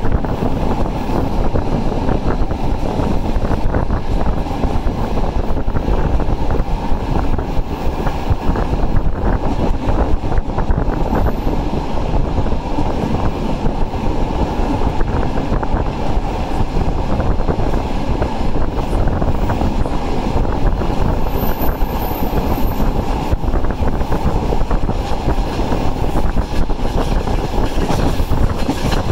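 Passenger train running at speed, heard from a carriage window: a steady rumble of wheels on the rails with rushing air.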